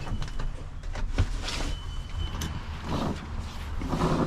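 Truck engine running, heard from inside the cab, with scattered clicks and a brief thin beep as it is started up to drive off.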